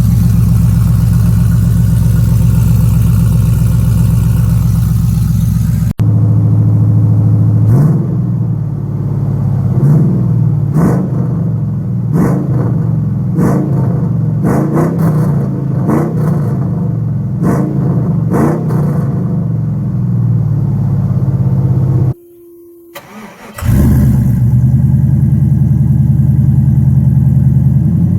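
Swapped 5.3-litre LS V8 in a 1992 Chevrolet Silverado running through a single open Magnaflow muffler with no tip, its exhaust not yet clamped at the header and leaking there. It idles steadily, then is revved in quick blips about once a second, cuts out briefly near the end and comes back at idle.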